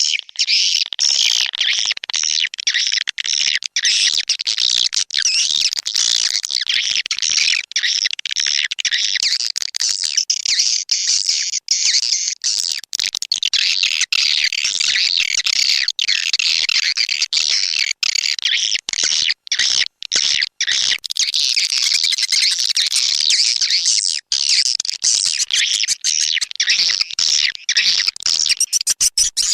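Swiftlet lure recording: a dense, continuous twittering of many swiftlet calls, high-pitched, with frequent brief dropouts. It is an 'outside' call track, played outside a swiftlet house to draw swiftlets in to roost and nest.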